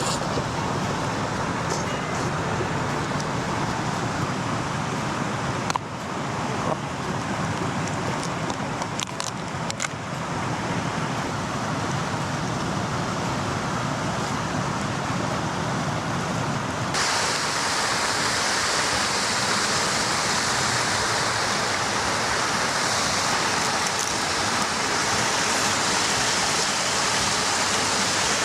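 Steady rushing of a river's flowing water, with a few light clicks about six to ten seconds in. About seventeen seconds in the rush turns brighter and hissier.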